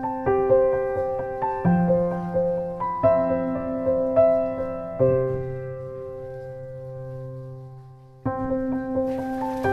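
Background piano music: a gentle melody over chords, with one chord held and fading about five seconds in, before the music starts up again abruptly near the end.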